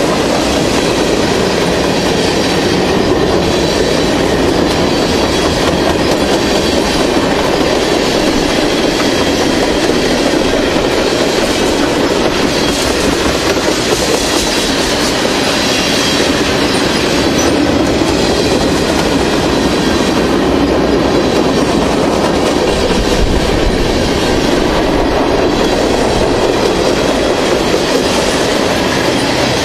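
Freight train cars rolling past close by: a steady, loud noise of steel wheels running on the rails, with no break in it.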